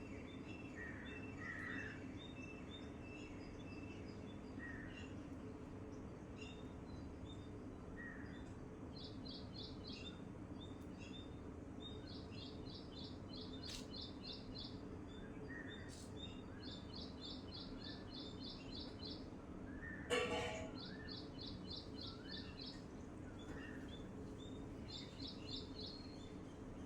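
Songbirds chirping: one bird repeats a fast, high, trilled phrase every few seconds, with scattered short chirps from others, over a steady low background hum. About twenty seconds in there is one brief, louder, sudden sound, the loudest moment.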